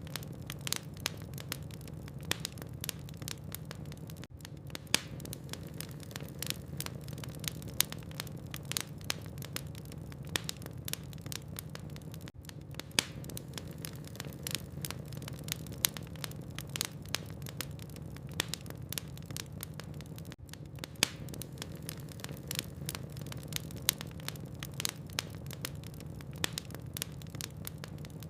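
Logs burning in a fireplace, crackling with frequent sharp pops and snaps over a steady low hum.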